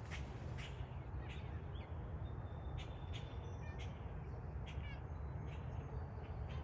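Birds calling with short, sharp calls, repeating about every half second, over a steady low rumble.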